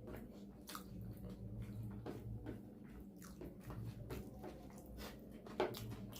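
Close-miked chewing and mouth sounds of a person eating rice with mutton curry: irregular wet smacks and small clicks, with one sharper click about two-thirds of the way in.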